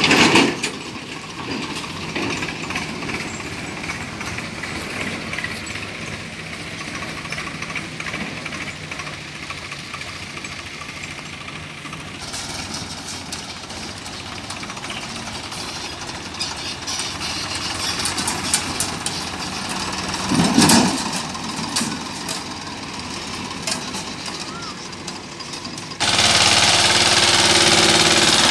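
An engine running with a rapid rattling knock. About 26 s in it cuts to a louder, steadier engine sound.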